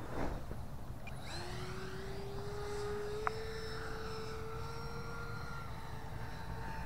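Electric ducted fan of a 64 mm RC F-16 jet with a 3300 kV motor whining in flight. The whine comes in about a second in and its pitch creeps up a little before holding steady.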